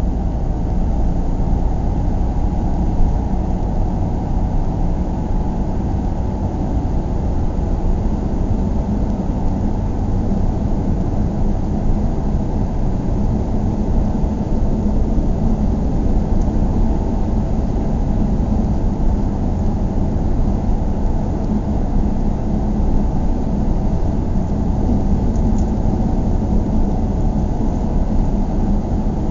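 Steady low rumble of a vehicle running, unchanging throughout.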